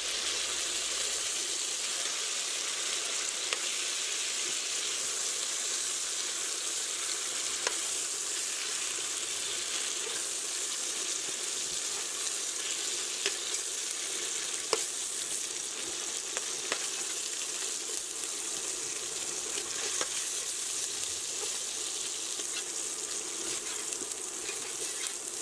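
Chopped vegetables and dried chili peppers sizzling in hot oil in a stainless steel pot, a steady frying hiss. A few short clicks of a spoon against the pot stand out as the pieces are scooped out.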